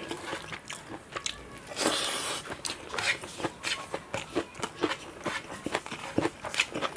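Close-up eating sounds: a person biting and chewing crunchy food with the mouth, in a run of short sharp clicks and a louder crunch about two seconds in.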